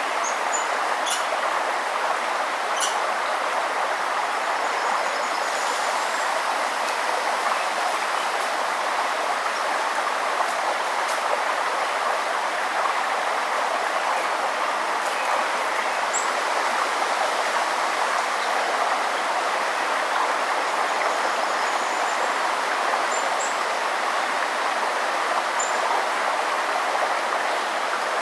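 Steady rushing of a forest river's flowing water, with a few short, high bird chirps scattered over it.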